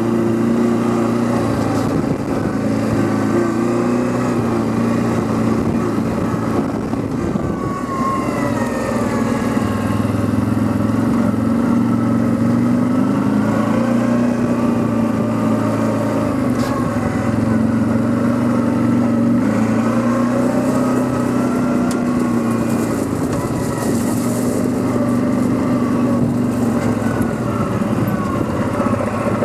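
Quad bike (ATV) engine running steadily under way, its pitch rising and falling gently with the throttle.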